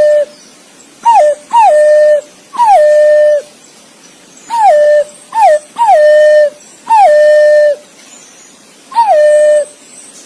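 Green pigeon (punai) calling: a series of loud whistled notes, each falling quickly in pitch and then held level, some short and some drawn out, with a brief pause about eight seconds in. This is a contact call to other green pigeons.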